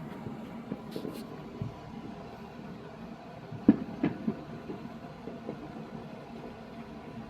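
Fireworks going off at a distance: a run of low booms and pops over a continuous rumble, with the two loudest bangs close together near the middle.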